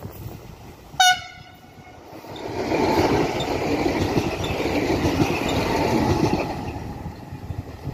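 Electric multiple-unit passenger train giving one very short horn toot about a second in, then passing close by with a rumble of wheels on the rails that builds, holds for several seconds and fades.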